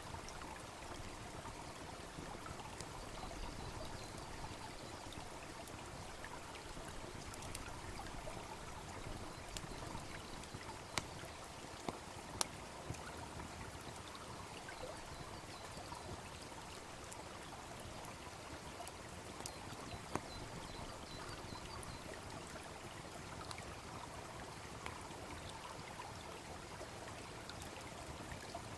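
A brook babbling steadily, with a wood fire crackling over it: a few sharp pops, clustered about halfway through and once more later.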